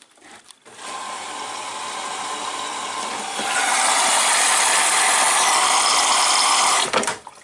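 Washing machine running at the start of its cycle with a steady rush of water, which grows louder about halfway through and cuts off suddenly near the end.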